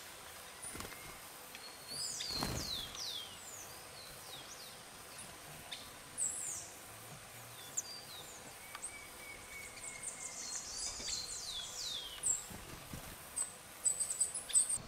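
Several rainforest birds giving short, high, downward-sliding chirps that overlap throughout, over a faint steady high insect hum, with one dull thump about two and a half seconds in.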